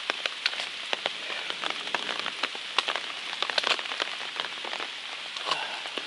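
Steady rain falling, a constant hiss with many sharp taps of single drops hitting close by.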